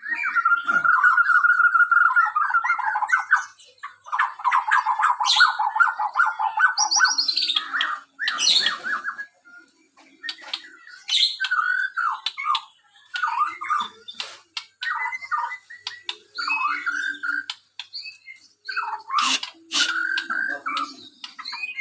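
Bornean white-rumped shama (murai batu) singing: two long, rapid rattling trills in the first eight seconds, then a run of short, varied whistled phrases punctuated by sharp clicks.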